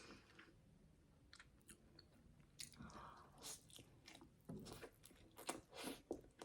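Faint close-up chewing of a mouthful of burger: soft wet clicks and smacks of the mouth, sparse at first and more frequent in the second half.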